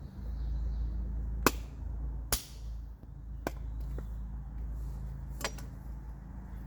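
A handful of sharp knocks, five in all and roughly a second apart, over a steady low rumble.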